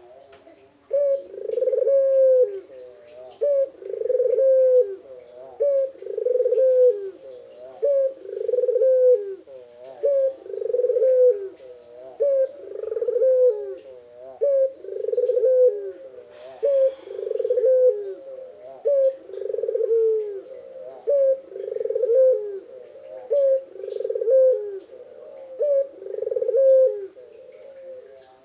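Puter dove (barbary dove) cooing steadily. It repeats a two-part coo about every two seconds, a short note and then a longer rolling one, some dozen times without a break: the bird is in full song.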